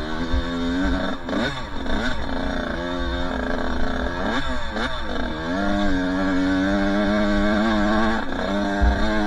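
Two-stroke dirt bike engine running under way, revving up and dropping back about a second in and again around four to five seconds, holding a steady pitch in between.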